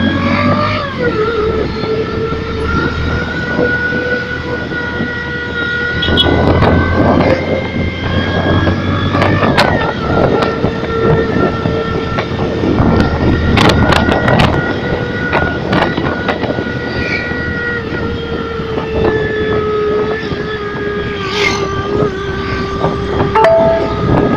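Yamaha New Megapro motorcycle with an electronic sound booster playing a MotoGP-like engine note: a steady, high whine whose pitch dips and rises slightly, with gusts of rushing noise coming and going.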